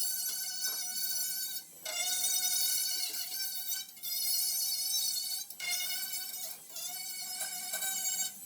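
Electric angle grinder with a grinding pad running at speed on the steel door, a high whine that drops out and picks back up about every two seconds as the pad is lifted and pressed back on.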